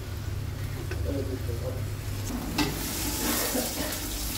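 Chopped pieces frying in hot oil in a stainless steel pot, sizzling while a ladle stirs against the pot. The sizzle swells about two and a half seconds in, over a steady low hum.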